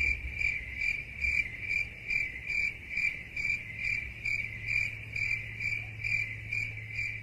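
Crickets chirping steadily, about two to three chirps a second over a faint low hum: the stock 'awkward silence' comedy sound effect.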